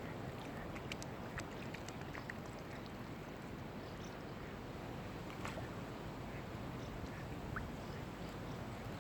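A steady low rush of wind and water, with scattered faint short high chirps and clicks throughout.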